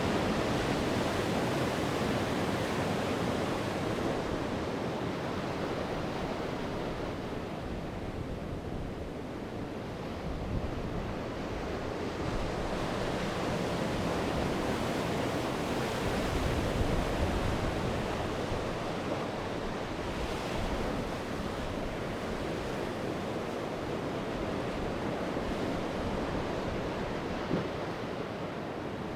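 Sea waves breaking and washing onto the shore in a continuous surf that rises and falls, easing about a third of the way in and swelling again near the middle.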